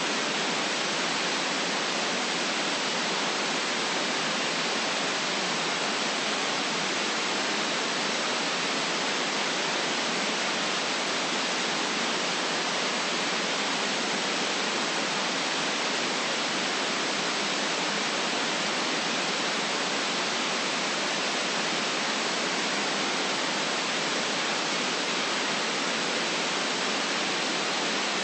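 Steady white noise: an even, unchanging hiss with no low rumble.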